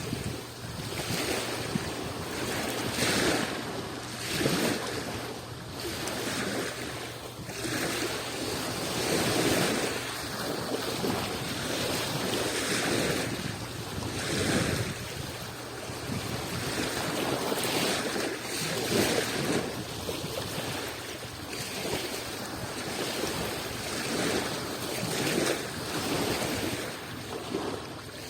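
Small Adriatic Sea waves breaking and washing onto the shore, one after another every second or two, over a steady rush of surf.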